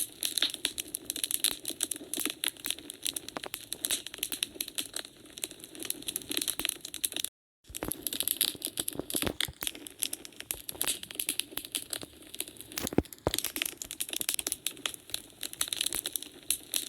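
Wood fire burning in a fireplace, crackling with dense, irregular snaps and pops over a steady low hiss. About seven seconds in, the sound cuts out completely for a split second, then the crackling resumes.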